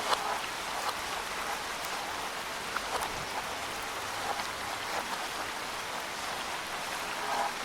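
Steady rain falling through woodland, an even hiss with occasional louder drops landing close by.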